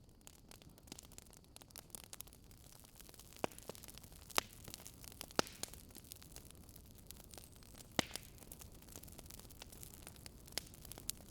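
Wood fire crackling over a soft steady hiss, with irregular small crackles and a few sharper pops.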